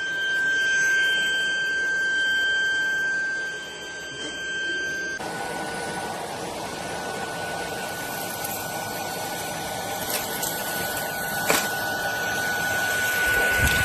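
Cordless stick vacuum running with a steady high whine over a rushing airflow. About five seconds in the recording cuts and the whine goes on with more airflow noise, with a few short knocks later on.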